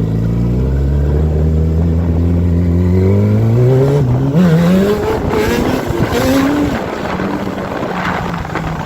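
Sport motorcycle engine under acceleration, its pitch climbing steadily for about four seconds. Then the pitch wavers up and down and the sound turns rougher.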